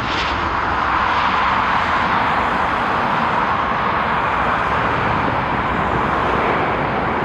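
Jet airliner engine noise: a steady, even rushing sound with no rhythm or breaks.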